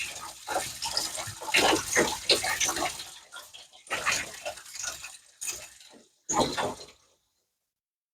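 Engine coolant spilling and splashing out as the water pump comes off, in irregular spurts that stop abruptly about seven seconds in.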